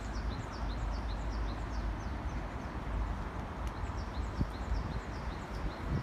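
A small bird calling in a fast, even run of short high chirps that drop in pitch, about three a second and alternating between two pitches, over a steady low outdoor rumble.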